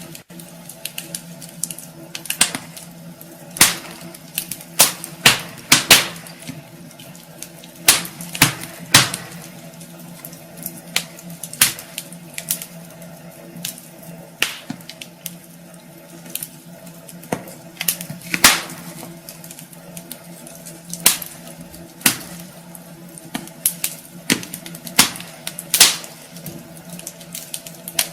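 Wood fire crackling in a fireplace: irregular sharp pops and snaps, a few a second, some much louder than others, over a faint steady hum.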